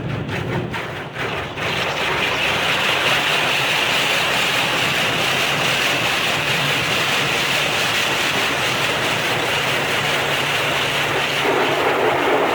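Rollover car wash at work, heard from inside the car: a steady hiss of water spraying onto the car starts about two seconds in, over the low hum of the gantry's motors. The spray takes on a fuller, lower sound near the end.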